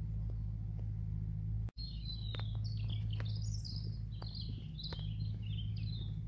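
A songbird singing one long, quick, warbling high-pitched phrase that starts about two seconds in, over a steady low rumble.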